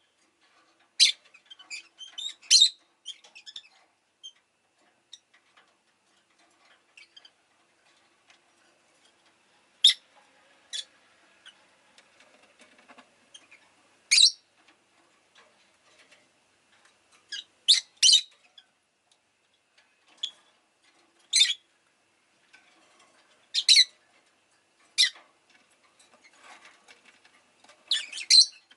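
Rosy-faced lovebird giving short, sharp high chirps, singly or in quick pairs, with pauses of a second to several seconds between them.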